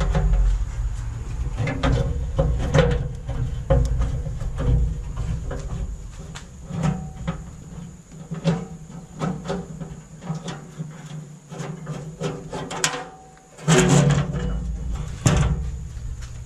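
Irregular clicks, clanks and rattles of rusty steel grill parts and fasteners being handled and worked loose by hand during disassembly, with a low rumble in the first few seconds.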